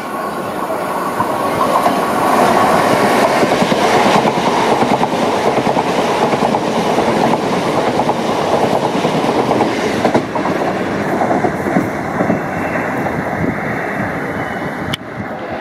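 A c2c Class 357 Electrostar electric multiple unit running past close by. The noise builds over the first couple of seconds as the train draws level, then stays loud.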